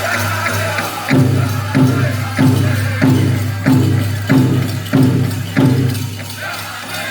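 Powwow drum: a big drum struck in about eight heavy, evenly spaced beats, roughly three every two seconds, each ringing on under a faint jingle of bells. The singing drops out during the beats and comes back in near the end.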